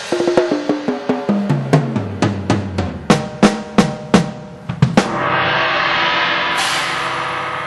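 Sampled acoustic drum kit played from electronic pads through a 2Box drum module. A fast tom fill steps down from high to low toms, followed by a run of snare and kick hits. About five seconds in it ends on crash cymbals that ring out, with a second crash near the end.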